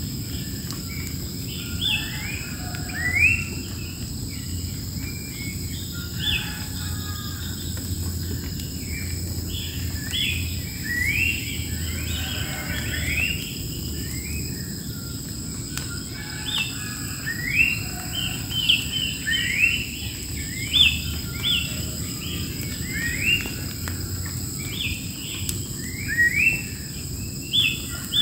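Wild birds calling over and over with short, quick rising chirps, some in fast runs, against a steady high-pitched drone of insects.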